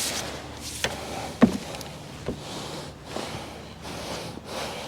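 Rustling and handling noise with a few knocks, the sharpest about one and a half seconds in.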